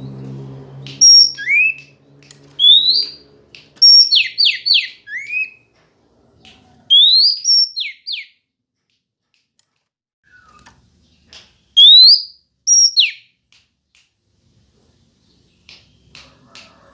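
Female Oriental magpie-robin calling: groups of quick, upward-sweeping whistled notes mixed with sharp ticks, separated by short silences. A low hum sits under the first few seconds.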